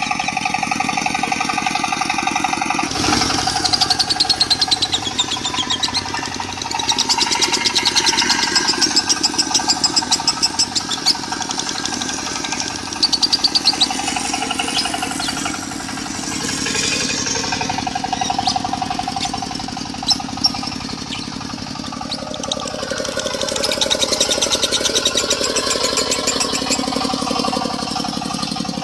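Lovebird singing a long, rapid chattering 'konslet' song mixed over a diesel engine running steadily.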